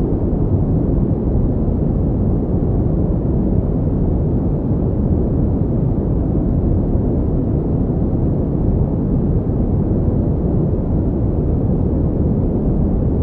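Steady pink noise: an even, unchanging rushing hiss, deep and dark, with most of its weight in the low range.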